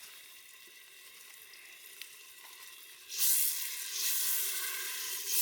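Masala paste frying in oil in a pan: a faint sizzle, then a loud sizzle about three seconds in that keeps going.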